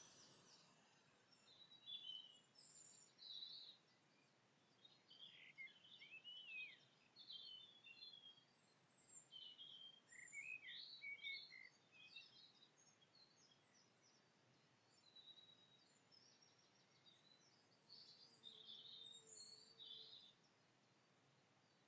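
Faint birdsong: scattered short chirps and whistled, sliding calls from more than one bird, over a steady low hiss.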